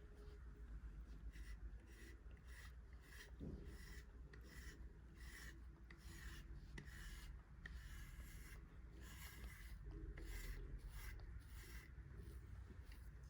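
A grooming brush being drawn through a cat's fur: soft, repeated brushing strokes, about two a second.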